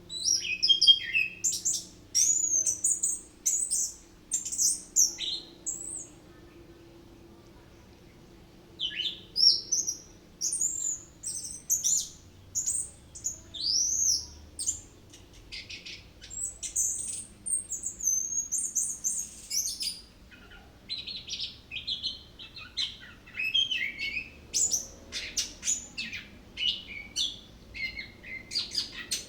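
Orange-headed thrush (anis kembang) singing a long, varied run of quick whistled and chirped phrases, pouring out its learned imitations of other birds. The song breaks off for a few seconds about six seconds in, then resumes with dense phrases.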